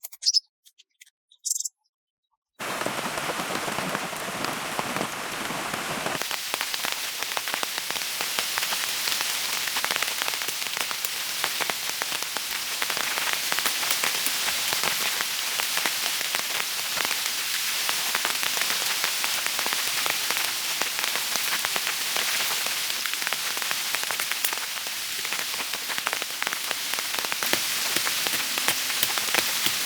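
Steady rain, many drops striking a surface, starting abruptly about two and a half seconds in; before it, a few brief high bird chirps.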